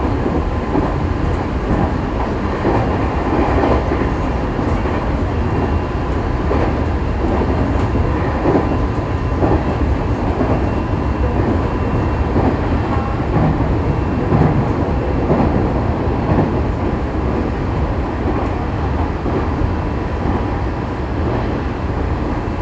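Interior running noise of an E501-series electric train's motor car on the move: steady rumble of wheels on rail, with a faint steady high tone throughout.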